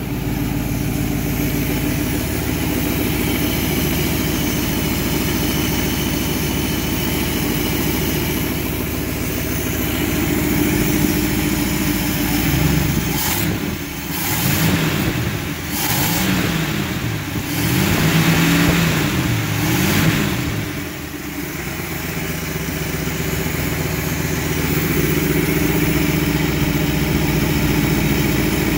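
1959 DeSoto Firesweep's V8 idling steadily, warmed up and running smoothly. About halfway through it is revved up and down several times, then settles back to idle.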